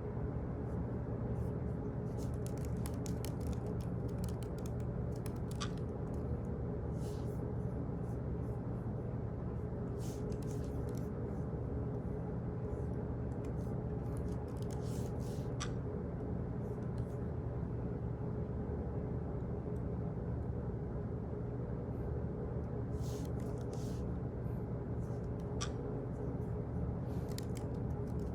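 Office ambience: a steady low hum with small clicks and taps scattered irregularly through it.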